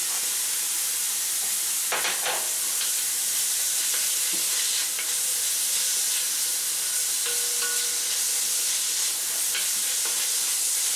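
Minced pork frying in a wok, a steady sizzle.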